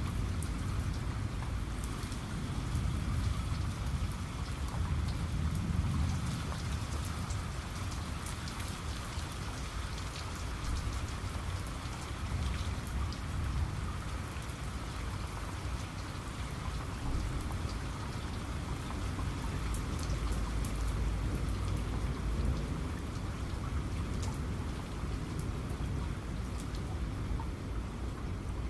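Steady heavy rain, with individual drops ticking on a surface over a constant wash. Underneath runs a low rumble of distant thunder that swells about five seconds in and again about twenty seconds in.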